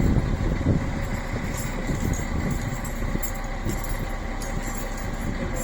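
Wind buffeting the phone's microphone in an uneven low rumble, over the low sound of a train standing at the platform.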